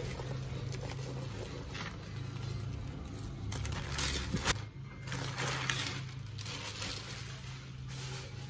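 Plastic packaging and bubble wrap rustling and crinkling in irregular bursts as a handbag is unwrapped and handled, loudest about four to five seconds in, over a steady low hum.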